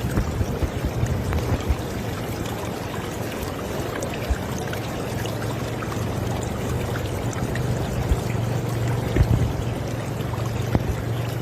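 River water flowing in a steady rush, with small splashes and low gurgling thumps throughout.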